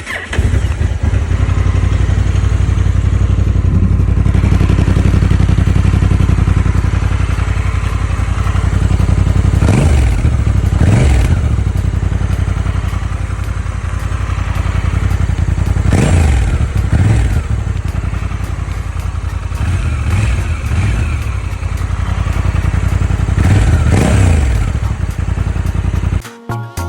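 Honda NT1100's 1,084 cc parallel-twin engine idling, with the throttle blipped several times into short revs that rise and fall back to idle. The sound cuts off near the end.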